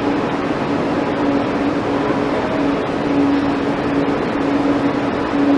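Steady background noise: an even hiss with a faint, wavering low hum underneath, and no distinct knocks or footsteps.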